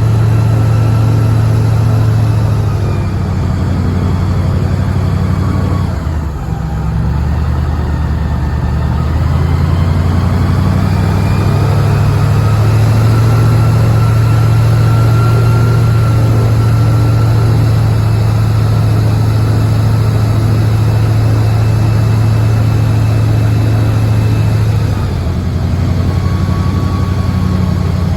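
Boat motor running steadily under way, easing off briefly about six seconds in and picking back up within a few seconds, then dropping slightly near the end.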